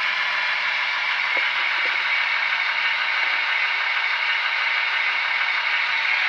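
Model train running along the track: a steady mechanical whirr from the motor and wheels, with a couple of faint clicks from the wheels over the rails.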